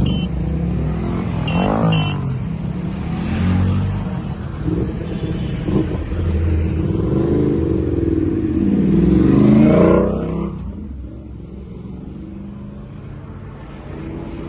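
Superbike engines revving and pulling away, their pitch rising and falling in several sweeps, loudest about ten seconds in, then settling to quieter steady running.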